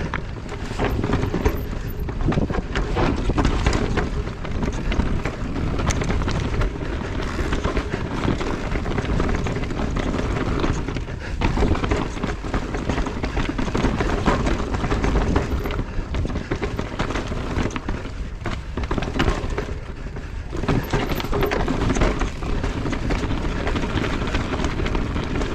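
Electric mountain bike ridden over a rough, rocky trail: tyres rumbling over rocks and roots, with a constant rattle of short knocks from the bike.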